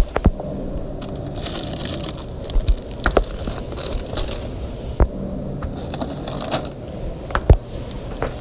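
Groceries or packaging being handled: short bursts of rustling and several sharp knocks as items are moved and set down.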